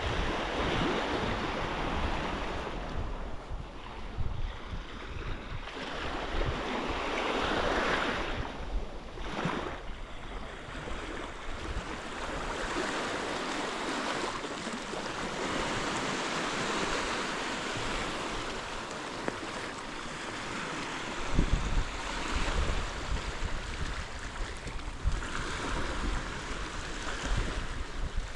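Sea waves breaking and washing up the shore, the rush swelling and fading every few seconds, with wind buffeting the microphone, heavier in the second half.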